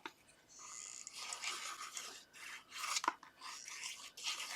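Paper and card rustling and rubbing as cut pieces are handled and slid into place on a card, with a couple of light ticks, one near the start and one about three seconds in.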